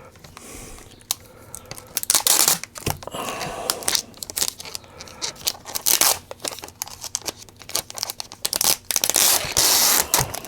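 Protective plastic film being peeled off the replacement touch-screen panel, giving an irregular crackling and tearing sound in fits and starts as the stuck film comes away unevenly.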